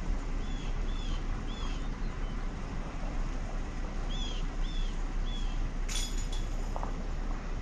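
Steady low rumble of outdoor background noise, with a bird chirping in two bursts of three short calls and a sharp click about six seconds in.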